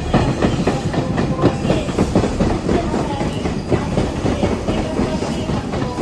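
A train running through, its wheels clacking in quick, irregular knocks over rail joints and points, over a steady rumble with a faint wheel squeal.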